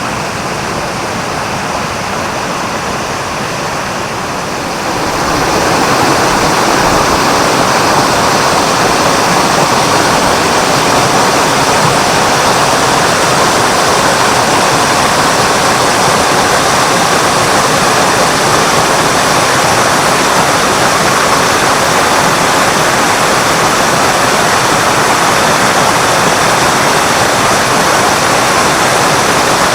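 Spring water pouring from the Mototaki Fukuryusui, a waterfall of underground water gushing out over a rock face: a steady rushing that grows louder about five seconds in and then holds.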